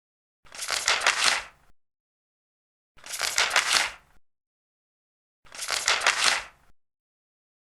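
Large paper pages being turned three times, each turn a crackling rustle lasting about a second, evenly spaced about two and a half seconds apart with dead silence between.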